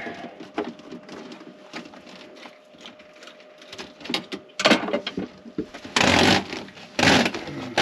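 Handling noise from parts being worked by hand: scattered small clicks and knocks, then a few loud rustling scrapes about five, six and seven seconds in.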